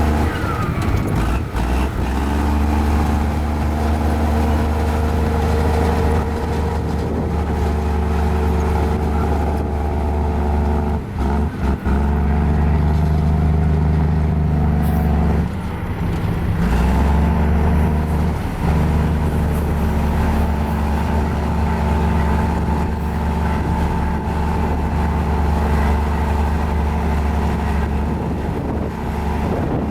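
Diesel engine of a mini Komatsu bulldozer running steadily under working load. It briefly drops twice, about a third of the way in and again near the middle, where the pitch shifts and then settles back.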